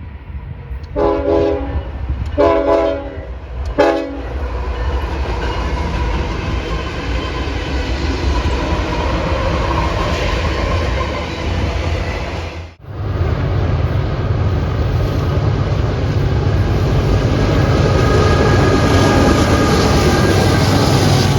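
Diesel locomotive's multi-note air horn sounding two long blasts and a short one, then the train rumbling past. The sound cuts out briefly about 13 seconds in, and train rumble with low engine drone resumes.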